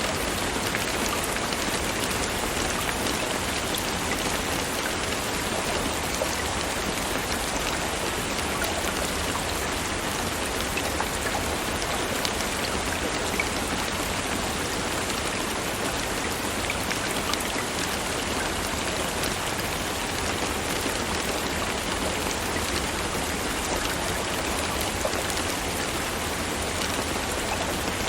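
Steady rainfall: a dense, even hiss of rain with scattered individual drops ticking on a surface.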